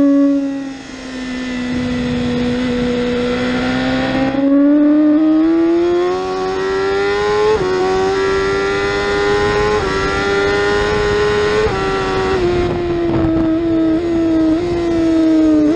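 BMW S1000RR inline-four engine at racing speed heard from on board, its pitch climbing under acceleration and dropping in sudden steps at gear changes, with a few quick steps near the end, over wind noise.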